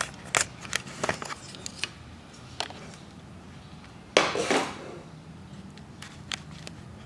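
Handling noises as an AV receiver and its packaging are moved about: a series of light clicks and taps, and one short, louder rustling scrape about four seconds in.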